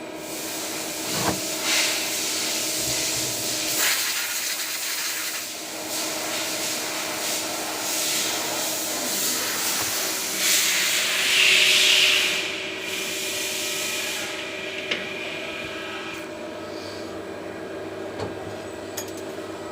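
CNC machine running with a steady hum, under a loud hiss that sets in at once, swells for a couple of seconds before the middle, and stops near the end.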